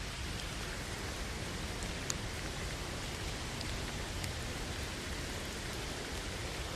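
Steady rain falling, a recorded rain ambience played back slowed down, with a few faint drop ticks.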